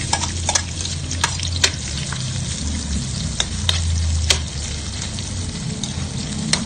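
Chopped ginger, garlic, onion and green chilies sizzling as they are sautéed in hot oil in a metal wok, with several sharp clicks and scrapes of the spatula against the pan.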